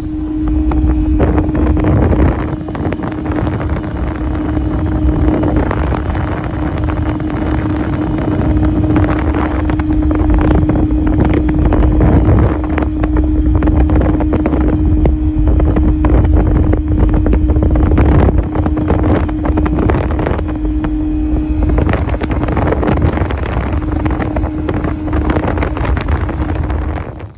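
A bass boat's outboard motor running at speed with a steady hum, under heavy wind buffeting the microphone.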